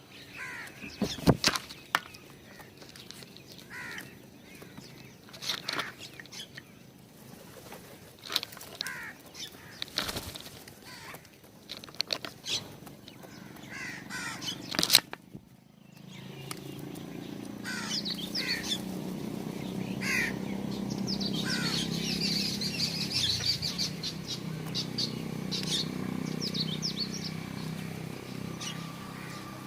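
Small birds at a feeder, chirping in short calls, with sharp wing flutters and taps through the first half. About halfway a steady low hum joins, and the chirping grows busier.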